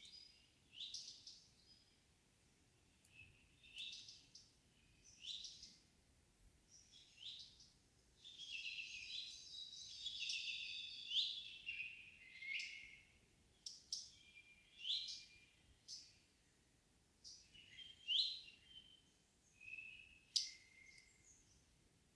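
Several songbirds singing in an evening forest: short, sharp song phrases every second or two, with a longer, busier stretch of overlapping song in the middle.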